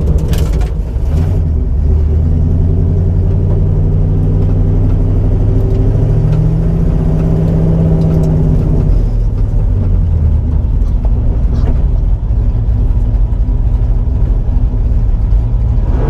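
The 1989 Mustang GT's 5.0 V8, heard from inside the cabin, running steadily under way. Its note rises for a few seconds around the middle, then drops back.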